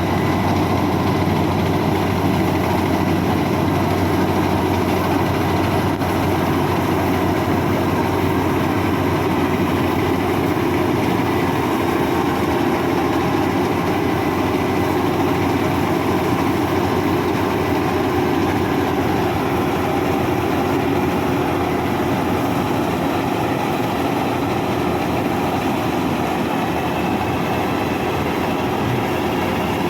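Bimo Maxxi 102 combine harvester running steadily, a continuous dense engine and machinery sound that grows a little quieter in the last third.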